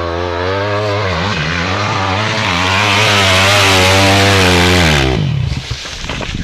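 Yamaha WR 250 dirt bike engine held at full throttle on a steep hill climb, its note wavering as the rear wheel digs in, then cutting off abruptly about five seconds in as the bike stops and goes over. Clattering and scraping follow as the bike falls on the slope.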